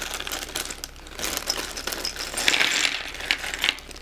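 A plastic bag being opened, crinkling, with small plastic LEGO pieces clicking and clattering against each other. The loudest rustle comes a little past halfway.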